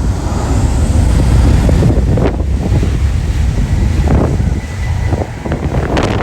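Strong wind buffeting the microphone, a loud gusting rumble.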